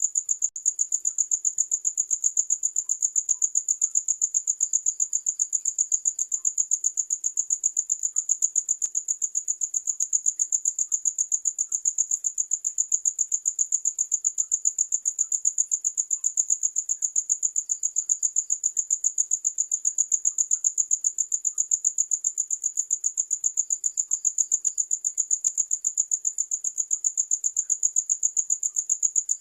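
Cricket chirping in a fast, even rhythm: a high-pitched chirp repeating several times a second without a break.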